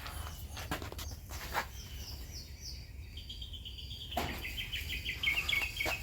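Small birds chirping in quick runs of repeated high notes, steadier from about halfway through, over a low steady rumble, with a few short knocks.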